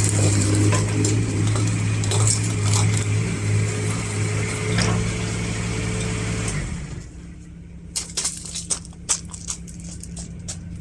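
Mini excavator's Kubota three-cylinder diesel running steadily. About seven seconds in it drops sharply to a quieter, lower hum, followed by a run of sharp clicks and knocks.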